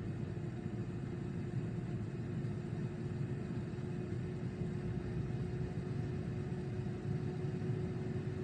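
Steady low rumbling hum from a running machine, with a constant tone above it and no change in speed.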